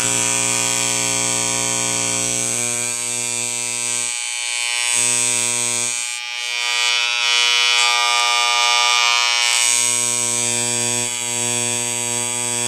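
Wahl CMCO electric hair clipper running with its blades off, a loud, steady electric buzz. It is working again now that its loose internals are refitted and centered. The tone shifts slightly about two and a half seconds in.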